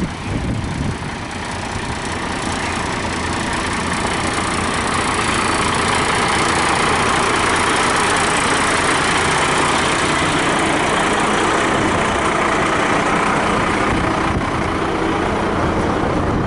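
A truck engine running steadily, growing louder over the first several seconds and then holding.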